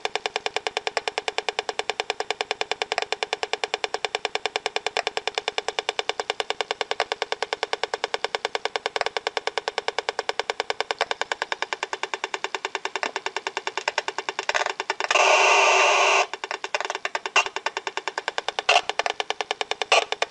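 Wi-Fi (wireless LAN) radio interference picked up by a speaker: a rapid, steady train of evenly spaced buzzy clicks. About three-quarters of the way through it turns into a continuous buzz for a second or so, then the clicks come back less regularly.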